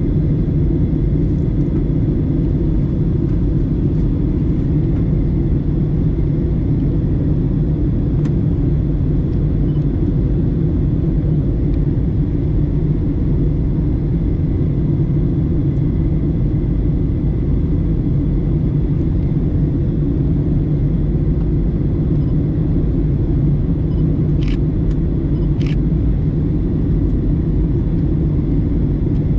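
Steady cabin rumble of a Boeing 737-900ER airliner in flight, engine and airflow noise heard from a rear window seat. Two short clicks come near the end.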